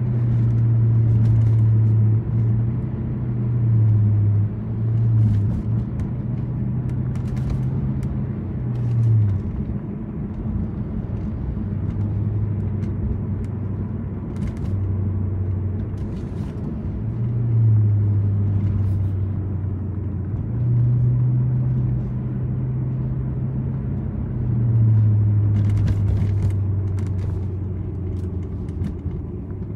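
Toyota Celsior's V8 and aftermarket Three Cats exhaust heard from inside the cabin while driving: a low drone that steps up and down in pitch as the car speeds up and eases off, over tyre and road noise.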